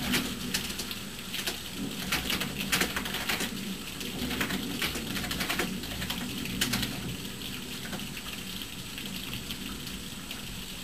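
Rain falling during a thunderstorm, with irregular sharp taps of drops landing close by. The taps come thick through the first half and thin out after about seven seconds.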